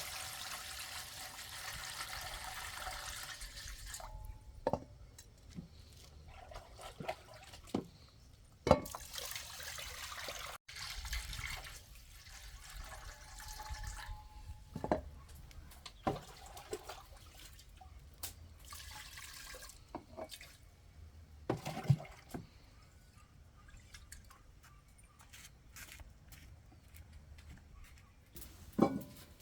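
Water running and splashing in several bursts, with scattered sharp knocks in between.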